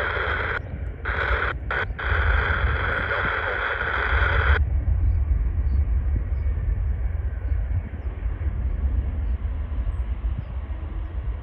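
Airbus A320 jet engines running on approach, a steady whine over a low rumble with wind on the microphone. About four and a half seconds in the higher whine cuts off abruptly, leaving only the low rumble.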